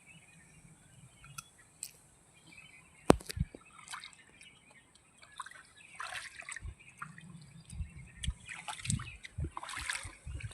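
Water trickling and splashing in short spells as roots and tubers are rinsed by hand, with scattered small knocks and one sharp click about three seconds in.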